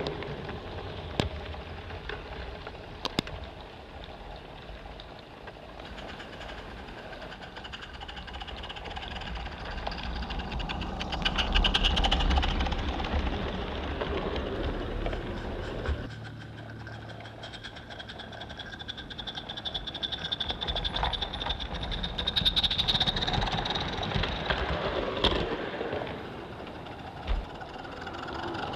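Live-steam garden-scale locomotive, an Accucraft Emma rebuilt as a Maine two-foot Forney, running with its train along the track. There are a few sharp clicks early on and a rapid rhythmic beat that swells loudest about twelve seconds in and again after about twenty seconds.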